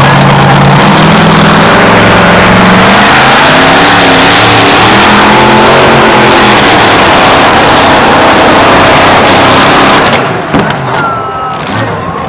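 Two-wheel-drive pulling truck's engine run at full throttle down the track, its pitch wavering as it loads and unloads. About ten seconds in, the engine drops off sharply as the run ends.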